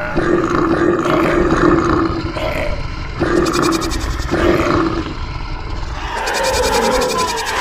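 Animal sound effects for a cartoon stampede: a string of roars, one after another, over a steady low rumble of a moving herd.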